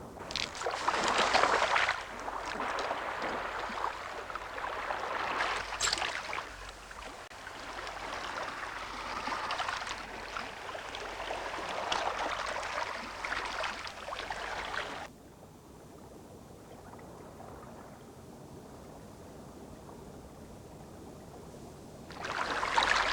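Rushing, bubbling water noise that surges and falls. About fifteen seconds in it cuts abruptly to a fainter hiss, and it swells again near the end.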